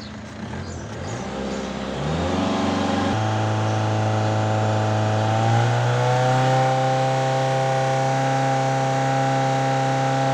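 Volkswagen 1.9 TDI four-cylinder diesel revved up. Its pitch climbs over the first few seconds, steps up twice, then holds steady at high revs. This is a turbo diagnosis, on an engine that the mechanic says does not pull all the way.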